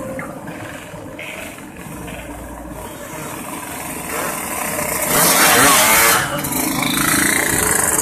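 Yamaha RX-King's two-stroke single-cylinder engine running, then revved hard about five seconds in, staying loud toward the end.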